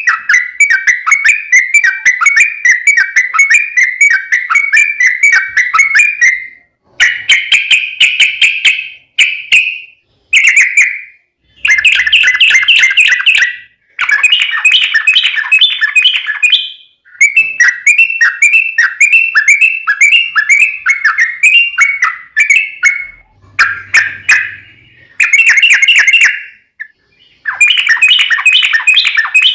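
Yellow-vented bulbul (trucuk) singing long runs of fast, repeated bubbling notes in phrases of a few seconds, with short breaks between them. This is the rapid 'ropel' song that bird keepers play as a lure to get other bulbuls to answer.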